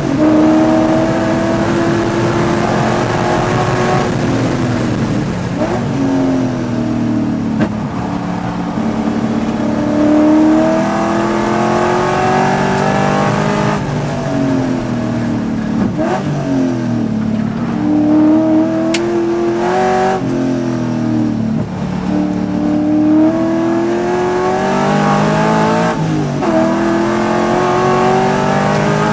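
Race car engine heard from inside the cockpit at full race pace, the revs climbing steadily and then dropping sharply at gear changes, over and over through the lap.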